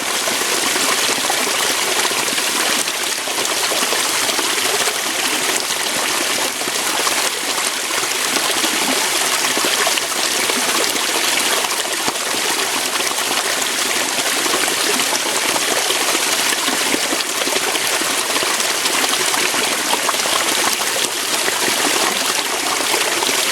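Water flowing and splashing over rocks in a small waterfall, a steady rushing hiss with no pauses.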